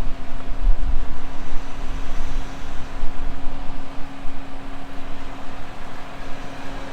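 Four-wheel-drive's engine running at steady revs under load, with an uneven low rumble beneath, as it struggles up soft sand without enough momentum.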